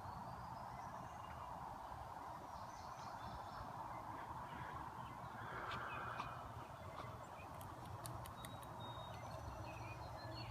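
Pack of beagles baying faintly in the distance, their voices blending into one continuous chorus that swells briefly about halfway through, with a few small bird chirps above it.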